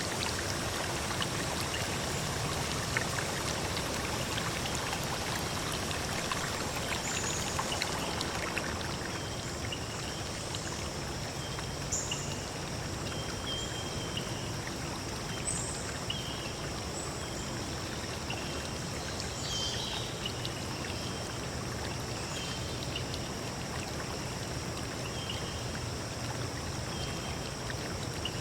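A stream of running water flowing steadily, with short high bird chirps repeating about once a second over it.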